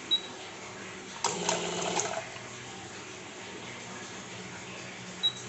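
Two-nozzle liquid filling machine working through its fill cycle: a short high beep, then about a second later just under a second of liquid being pumped and dispensed through the nozzles with a pulsing sound, and the beep again near the end as the next cycle starts.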